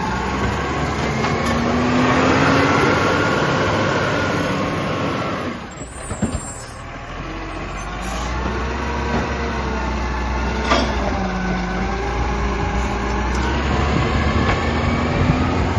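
Garbage truck running at a bin collection, its engine pitch rising and falling as it works, with a sharp knock about eleven seconds in.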